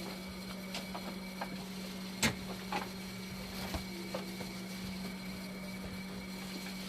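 Steady hum of running machinery with a faint high whine, overlaid by scattered light clicks and taps and one sharper knock about two seconds in.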